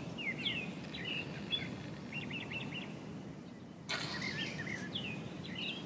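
Small birds chirping and twittering in short repeated calls and trills over a steady low background rumble, with a brief rush of hiss about four seconds in.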